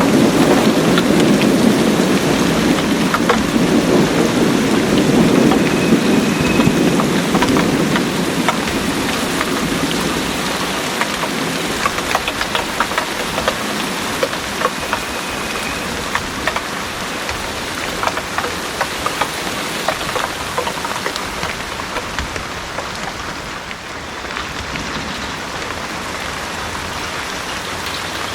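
Heavy rain pouring steadily, with many close drops ticking sharply. A low rumble of distant thunder fills the first several seconds and fades away, leaving only the rain.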